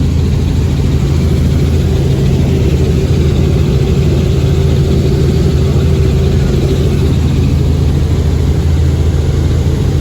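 Helicopter engine and rotor running at a steady, loud drone.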